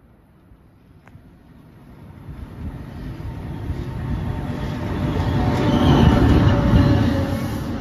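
NJ Transit electric locomotive and Multilevel coaches arriving along the platform, the train's rumble growing steadily louder to a peak about six seconds in as the locomotive passes, then easing slightly as the coaches roll by.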